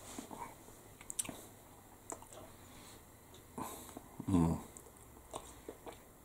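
A person chewing a mouthful of steak bridie, a Scottish meat pasty in crunchy, flaky pastry, with scattered soft mouth clicks and crunches. A brief low voice sound comes from the eater about four seconds in.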